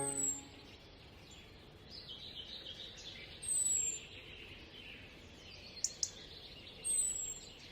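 Birds calling: a thin, high, falling whistle repeated three times about every three and a half seconds, with softer twittering between. Two brief clicks come about six seconds in.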